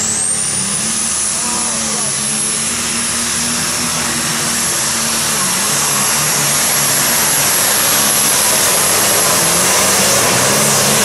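Super stock pulling tractor's turbocharged diesel engine at full power on a pull. A high turbocharger whine climbs just before, holds steady, and starts to fall away just after, over the deep engine note.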